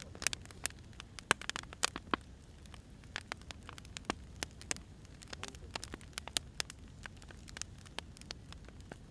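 Firewood burning, with irregular sharp crackles and pops over a low steady rumble; the pops come thicker in the first couple of seconds.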